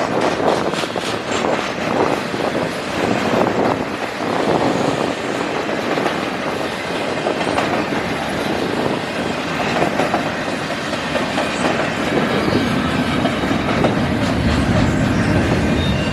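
Canadian National intermodal freight train rolling past, its wheels clicking over the rail joints in a steady rumble. A deeper low rumble builds near the end.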